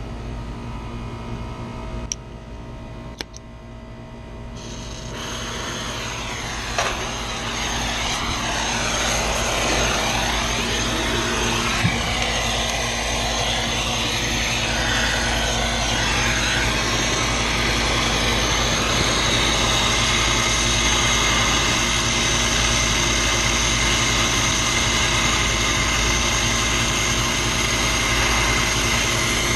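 A machine starts about five seconds in, builds up over several seconds, then runs steadily as a loud whooshing drone over a low hum. A couple of sharp clicks come before it.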